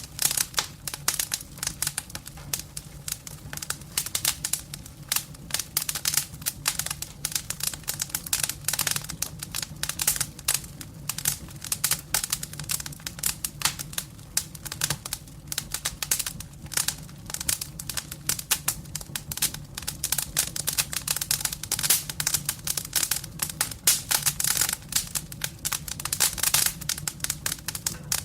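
Firewood burning in a fireplace, crackling steadily with a dense run of sharp pops and snaps over a low steady undertone.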